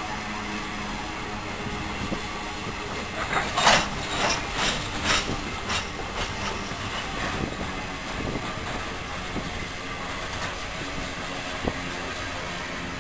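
Freight cars of a passing train rolling by on the rails: a steady rumble of wheels on track. About three to six seconds in comes a short run of loud, sharp metallic sounds, and one more comes near the end.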